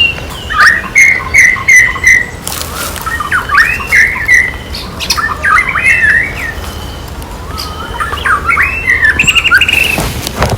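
High-pitched animal calls: many short chirps, squeaks and squawks that bend up and down in pitch, including a quick run of repeated chirps in the first couple of seconds. A brief noisy burst comes about two and a half seconds in and again near the end.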